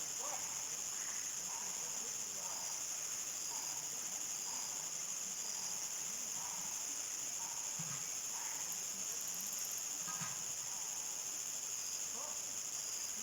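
Chorus of crickets at dusk, a continuous high-pitched trill, with faint scattered short calls lower down.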